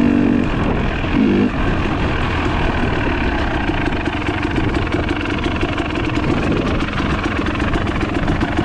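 Trail motorcycle engine running steadily over a wash of wind and road noise, with a short rise in engine pitch about a second in.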